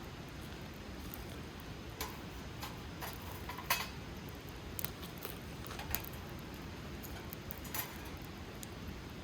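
Wood campfire crackling: irregular sharp snaps and pops from the burning wood, the loudest a little under four seconds in, over a steady low rush of the flames.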